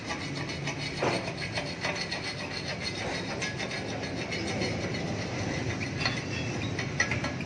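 Continuous scraping and rasping of metal being worked by hand, with many small clicks throughout.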